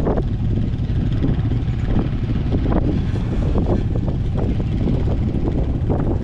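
Steady running noise of a vehicle riding a loose dirt trail, mixed with wind on the microphone, with frequent short knocks and rattles from the bumps.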